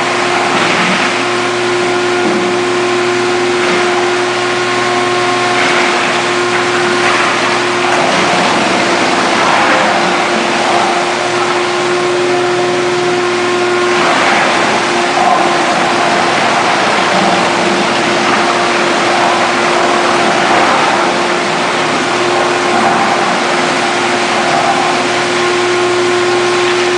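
Vantec forestry wood chipper running with a steady whine, with repeated swells of grinding noise every few seconds as branches are fed through its feed roller and chipped.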